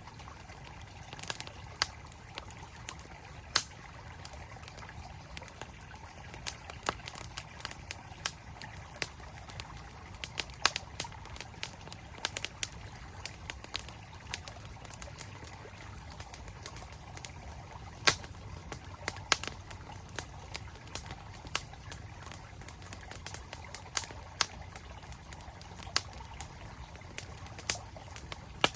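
Wood campfire crackling, with many sharp irregular pops over the steady rush of a flowing stream; the loudest pop comes about eighteen seconds in.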